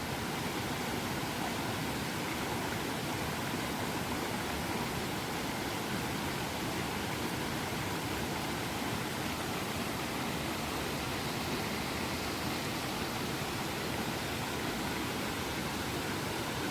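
Creek water rushing steadily over a small waterfall.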